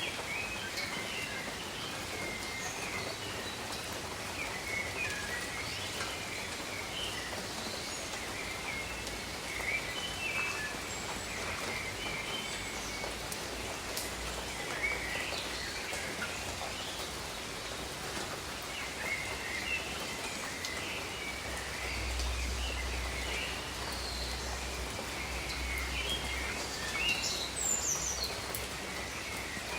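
Steady rain falling, with many birds giving short chirps and calls throughout.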